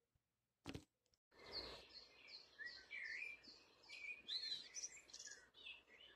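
Faint birdsong: after a short click, a bird starts about a second and a half in with a run of short repeated chirps, then goes on with varied whistled notes that glide up and down.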